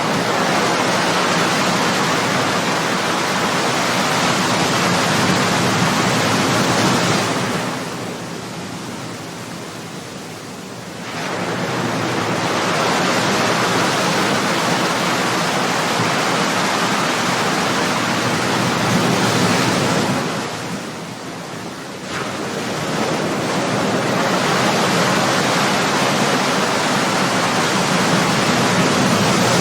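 Ocean surf: waves breaking and washing up the shore as long swells of rushing noise, each running for several seconds, with two brief lulls between them.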